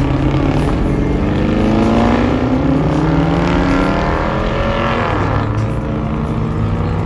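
Car engine under throttle, its pitch climbing steadily for about five seconds, then dropping sharply and settling to a lower, steady run.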